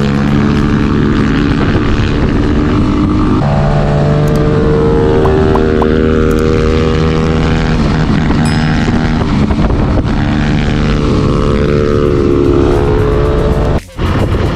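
Spark SP250D-1 motorcycle engine running under way, picked up by a camera on the bike: a steady engine note that changes pitch sharply about three and a half seconds in, then shifts slowly up and down. The sound cuts out briefly near the end.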